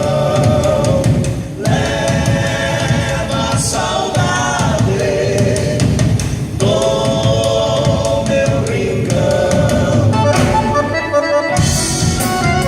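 A band playing a song: singing in held phrases over instruments and a steady drum beat.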